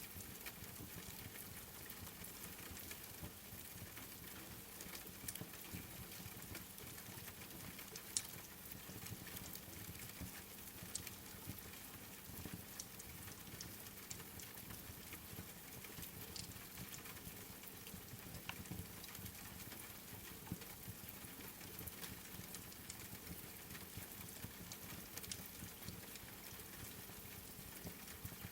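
Rain and wood-fire ambience: a faint steady hiss of rain with scattered sharp crackles and ticks. The sharpest crackle comes about eight seconds in.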